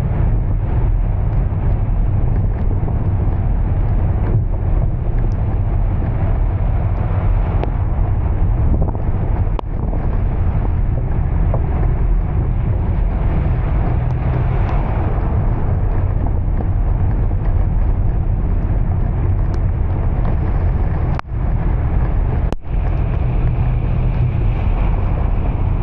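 Steady low rumble of a vehicle on the move, with wind buffeting the microphone. The sound drops out briefly twice near the end.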